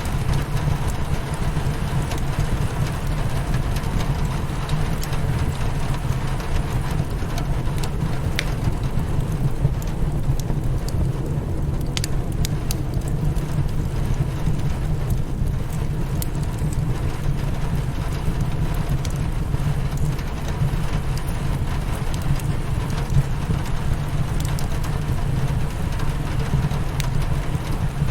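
Steady rain beating against a window pane, with a strong low rumble underneath. A few sharp pops from a crackling wood fire stand out here and there.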